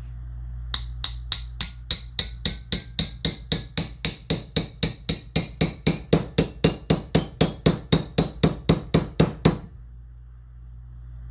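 A small hammer tapping a pin into a side-by-side shotgun's action: a long even run of light metal strikes, about four a second, growing louder toward the end and then stopping.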